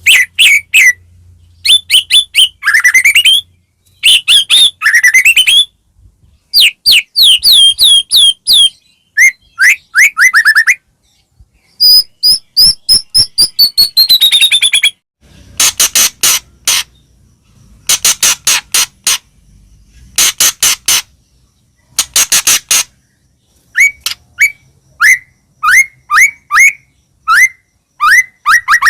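White-rumped shama (murai batu) singing a loud, varied song: whistled notes that sweep up and down, quick trills, and runs of harsh rasping notes at about three or four a second, with short pauses between phrases.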